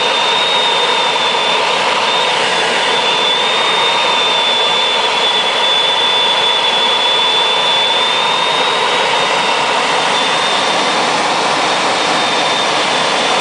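Steady loud rush of air in a glider's cockpit during its takeoff, with a thin high whistle held over it.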